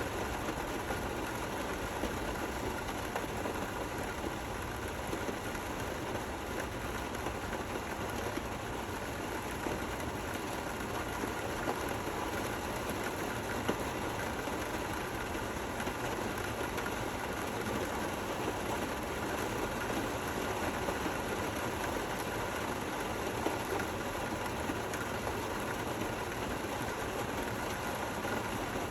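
Gentle rain falling steadily: an even hiss with no thunder.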